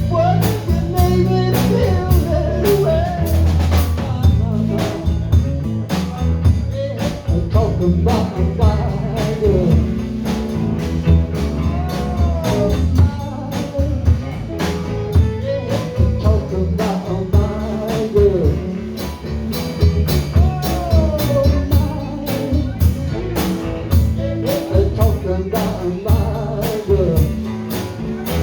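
Live band playing an instrumental stretch of a soul song: steady drum kit and bass under a lead line that bends and glides in pitch.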